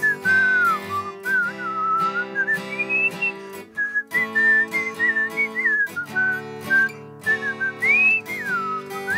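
A person whistling a tune in clear held and sliding notes, over strummed acoustic guitar chords.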